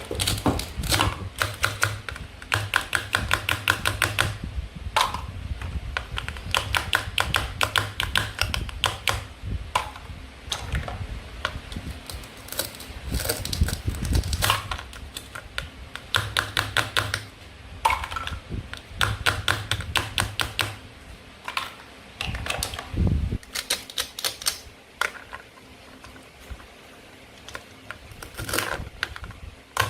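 Toy play-food fruits and vegetables being cut apart with a toy knife: short runs of rapid clicking and crackling, one after another with brief pauses between.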